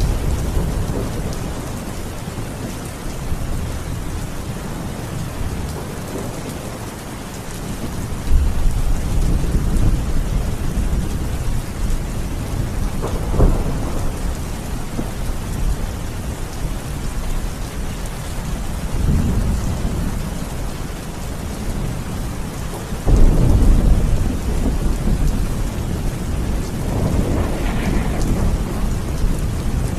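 Steady rain, with low thunder rumbling through it: deep rolls swell up about 8, 19 and 23 seconds in, the one at 23 seconds the loudest, and there is a sharper crack about 13 seconds in.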